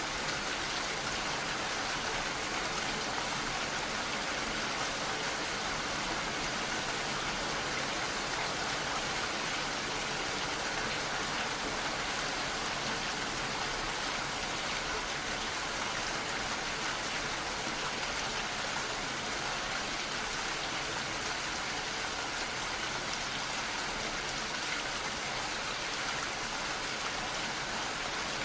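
Steady rain falling, a constant even hiss of drops without let-up.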